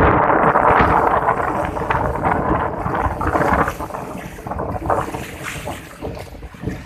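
Wind buffeting the microphone over water rushing along a sailboat's hull, loudest at the start and easing off toward the end.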